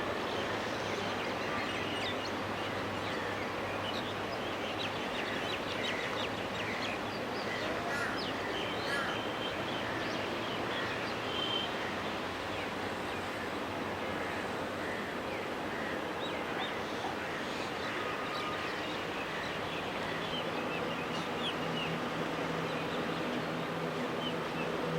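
Steady airport background hum with scattered bird chirps over it.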